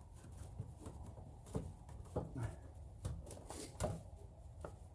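Faint handling sounds: scattered soft clicks and rustles as a rubber hood seal strip is pressed into place along a cold air intake box for a test fit.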